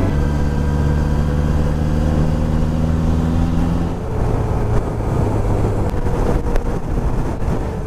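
Motorcycle engine running on the move, with wind noise; about four seconds in, its steady even note gives way to a rougher, noisier sound.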